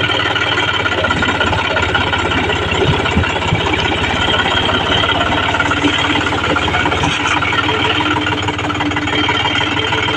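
John Deere tractor's diesel engine running steadily with a fast, even firing rhythm and a loud knocking clatter.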